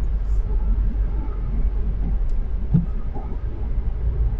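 Steady low rumble of a car driving on a snowy road, heard from inside the cabin, with a couple of faint knocks a little after halfway.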